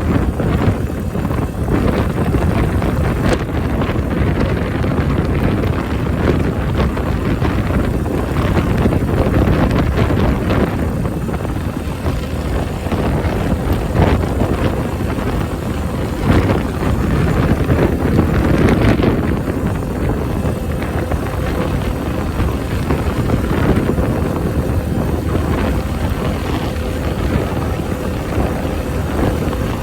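Honda Benly CS90's small single-cylinder four-stroke engine running steadily under way, with strong wind buffeting the microphone.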